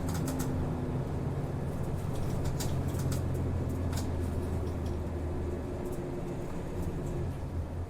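Interior running sound of a city route bus: a steady low engine hum with light clicks and rattles from the cabin, mostly in the first second or so.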